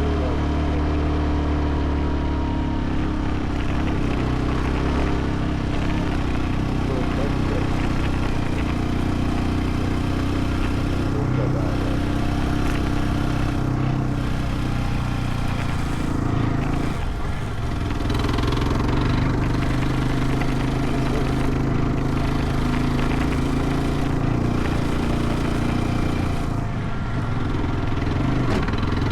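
Motorcycle engine running steadily, its pitch shifting briefly a little past halfway and again near the end.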